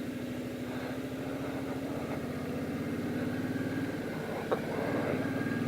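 Motorcycle engine running steadily at low revs, with one sharp click about four and a half seconds in.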